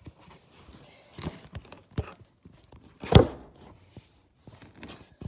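Footsteps with a few scattered knocks and thuds, the loudest a sharp knock about three seconds in.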